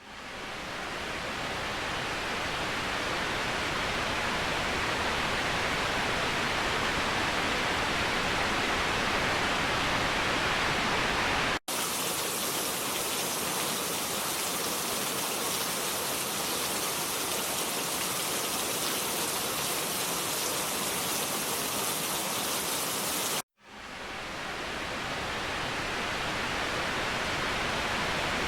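Waterfall rushing steadily as an even roar of falling water. It cuts out briefly twice, near the middle and near the end. After the first break the rush is thinner and hissier, and after the second it swells back in over a second or two.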